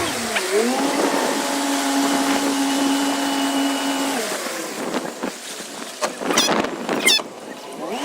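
A boat motor hums at a steady pitch for about three seconds, then drops away, over constant wind and water noise; two quick high chirps come near the end.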